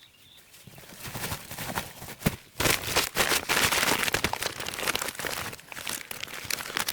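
Dense rustling and crackling with many small irregular clicks, faint at first and much louder from about two and a half seconds in.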